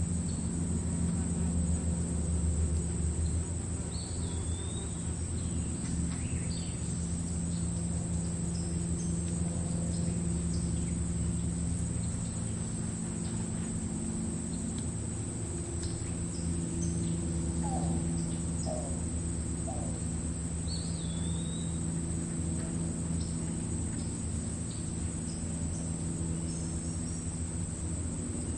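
Meadow ambience: crickets trilling steadily in the grass, with scattered short bird chirps and whistles and a steady low rumble underneath.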